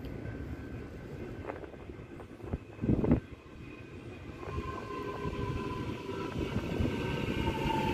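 Metro Melbourne X'Trapolis electric suburban train approaching and slowing into the station, a rumble growing louder as it nears. From about halfway in there is a whine that falls slowly in pitch as the train brakes to stop. A brief loud thump comes about three seconds in.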